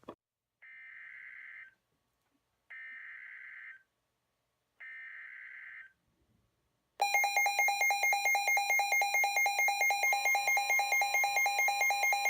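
NOAA weather radio alert, as on a Midland WR-120: three short bursts of screeching data tones (the SAME header coding the warning), then from about seven seconds in the radio's loud, rapidly pulsing alarm beeps, about eight a second.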